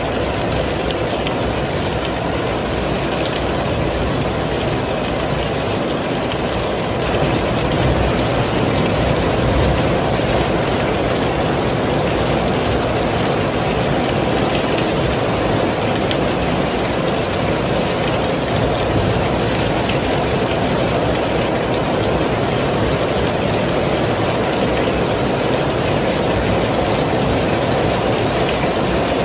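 Heavy rain falling steadily: a dense, low, even rush of noise, a little louder from about seven seconds in.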